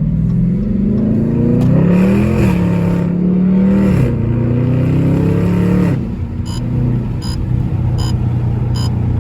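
Dodge Charger Scat Pack's 392 HEMI V8 accelerating through the gears: the engine note climbs, drops at an upshift about two seconds in, climbs again and drops at another shift about six seconds in, then holds steady. In the last few seconds there is an even ticking about every three-quarters of a second.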